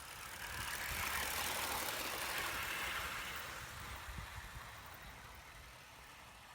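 Live-steam model pannier tank locomotive passing close by, the hiss of its steam exhaust and the clatter of its wheels swelling and then fading away.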